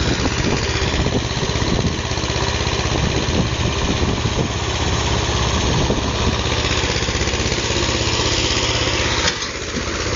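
Tractor engine running steadily, with a sudden brief dip in level about nine seconds in.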